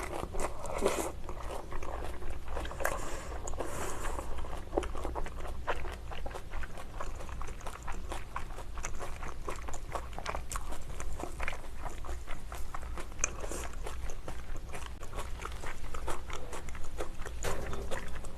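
Close-miked chewing and wet mouth clicks of a person eating, many small irregular smacks, over a steady low hum.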